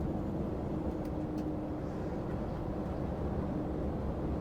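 Inside a lorry cab on the move: a steady low drone of the engine and road noise, with a faint steady hum that fades in and out.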